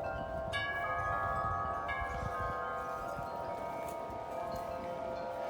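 Several large tuned metal wind chimes ringing in strong wind, many long overlapping tones, with fresh strikes about half a second in and again near two seconds. A low wind rumble runs underneath.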